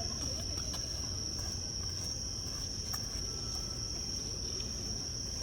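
Insects singing, one steady unbroken high-pitched drone, over a low background rumble.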